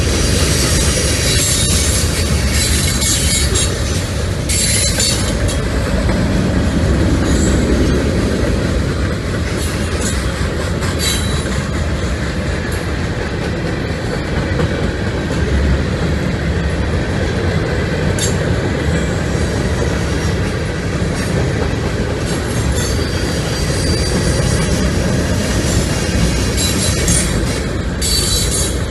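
Freight train of boxcars, hopper cars and autoracks rolling past close by: a continuous rumble of steel wheels on the rails. High-pitched wheel squeals flare up in the first few seconds, again about ten seconds in, and near the end.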